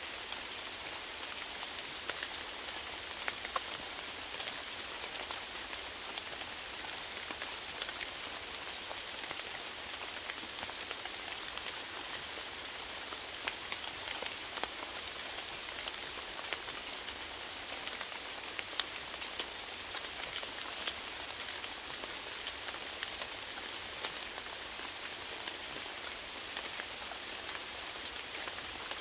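Steady rainfall, an even hiss with many individual drops pattering and ticking on a surface.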